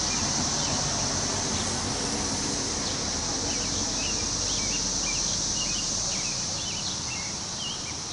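Wind rushing through forest trees as a steady hiss, with a constant high insect drone and many short bird chirps over it.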